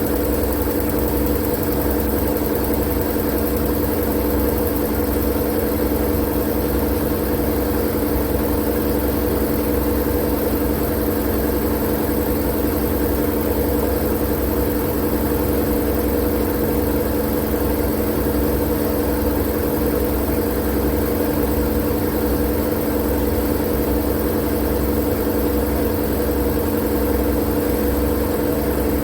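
Steady, unchanging white-noise drone with a low mechanical hum in it, like an idling motor, played as a sleep sound for babies.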